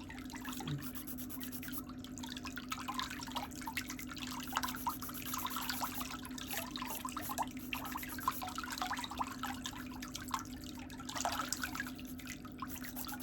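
Toenail nippers trimming a damaged big toenail: soft, irregular little clicks and snips, over a steady low hum.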